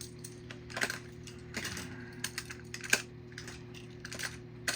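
Irregular light clicks and clatter of die-cast toy cars being handled, over a steady low hum.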